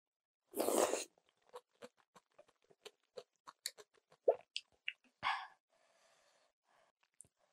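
Close-miked eating of kalguksu noodles wrapped in kimchi: a short slurp about half a second in, then a run of quick crisp crunches and wet mouth clicks as the kimchi is chewed. A second short rush of noise comes about five seconds in.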